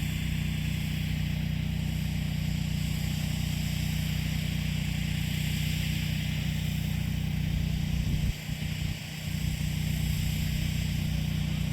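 An engine running steadily at a constant speed, a low even drone that dips briefly about eight seconds in.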